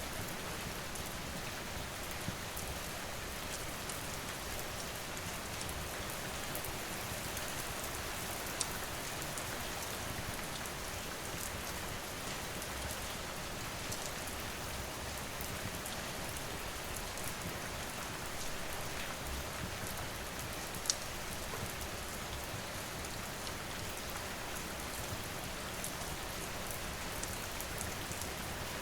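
Steady rain falling, an even hiss of raindrops, with a few isolated sharp pops of a crackling wood fire.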